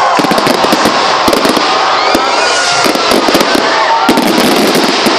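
Fireworks barrage: many shells launching and bursting in quick succession, a dense run of bangs and crackles.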